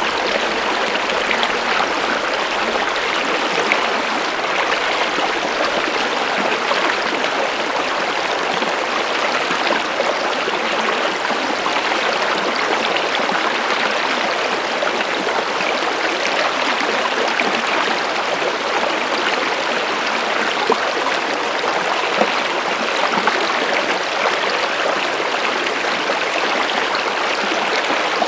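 Water running steadily in a stream: an even, continuous splashing noise with little low end.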